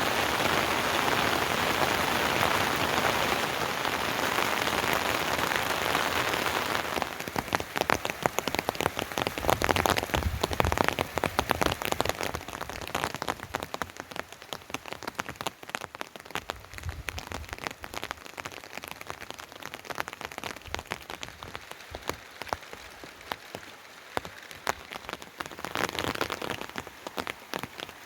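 Heavy rain: a dense, steady hiss for the first several seconds, then an abrupt change to separate, close drops and drips striking a surface, thinning out later on.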